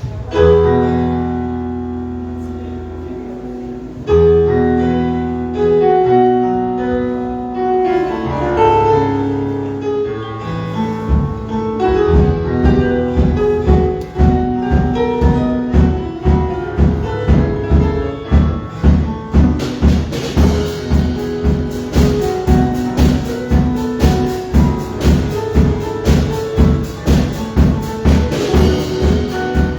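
Instrumental intro to a Christian praise song: held keyboard chords, then about eleven seconds in a drum kit and bass come in with a steady beat.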